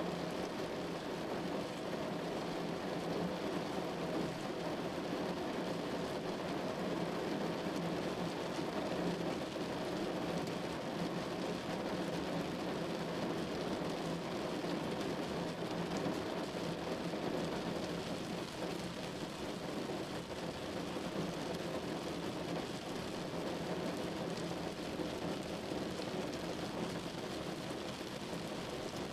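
Steady rain falling on a window glass: an even, unbroken wash of drops with no single claps standing out.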